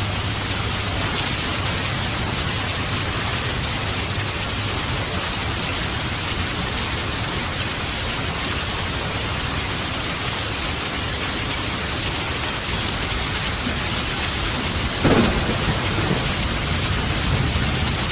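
Steady heavy rain hissing over a low rumble of thunder. About fifteen seconds in, a sharp thunderclap cracks out and rolls off into rumbling.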